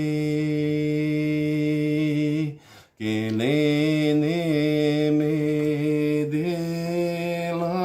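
A man's voice chanting two long sustained notes, the first held steady, then after a short break a second one with slight wavers and a small rise in pitch.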